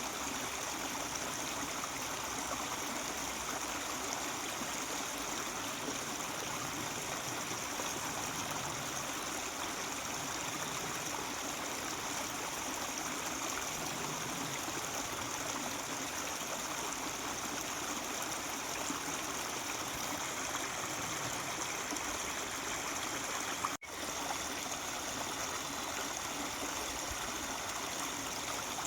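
Mountain stream babbling and trickling over rocks, a steady rush of water that cuts out for an instant about 24 seconds in.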